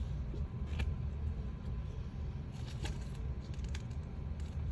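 Light clicks and rustles of small objects being handled, over a steady low hum.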